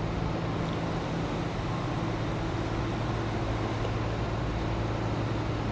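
A steady low mechanical hum over a constant background of noise, unchanging throughout.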